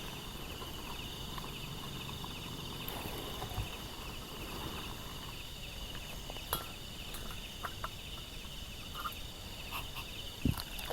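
A steady chorus of insects trilling in a high, finely pulsing band, with a few faint clicks and a couple of sharper knocks near the end.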